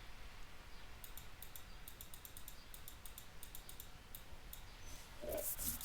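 Faint, quick, irregular clicks of computer keyboard keys being typed for about three and a half seconds.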